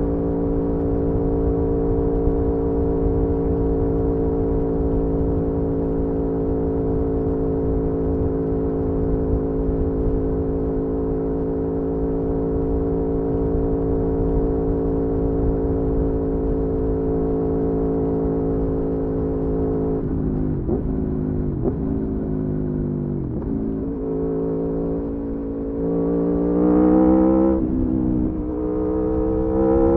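Aprilia Tuono V4's V4 engine heard on board, holding steady revs at a cruise for about twenty seconds over wind rush. Then the pitch dips and recovers several times as the throttle comes off and on, and near the end the revs climb twice under acceleration, louder.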